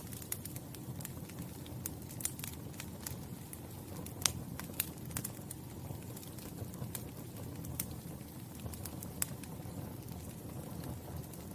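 Wood fire crackling: irregular sharp pops and snaps over a steady low rumble of burning flames, the loudest pop about four seconds in.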